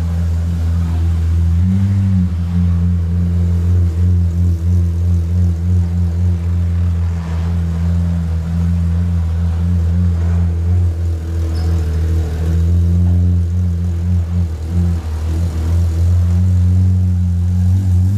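Pagani Zonda's Mercedes-AMG V12 running at low revs with a steady low engine note as the car creeps across the floor. The pitch steps up briefly about two seconds in and again at the end.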